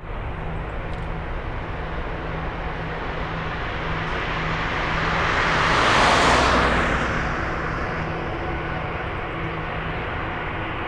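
Jet airliner engines running at takeoff power: a steady noise with a low hum underneath that swells to a peak about six seconds in and then eases off.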